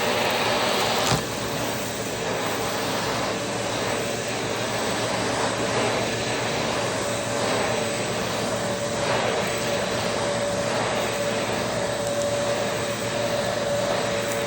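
Vacuum cleaner running steadily, a loud motor whine over rushing air. There is a sharp click about a second in, after which it runs a little quieter, with faint regular swells.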